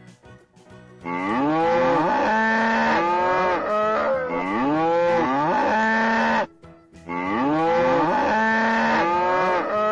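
Cow mooing: two long moos that swoop up and down in pitch, the first starting about a second in and the second a little after halfway.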